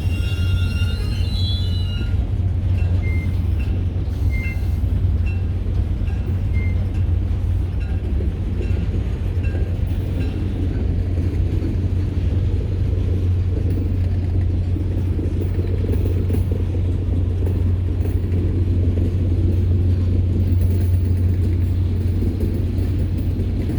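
Train rolling past with a steady low rumble. Faint, short, high-pitched tones repeat through roughly the first ten seconds.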